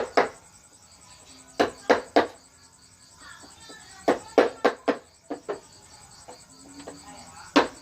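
Mallet striking a carving chisel into wood: sharp knocks in short irregular runs of two to five blows, with pauses between.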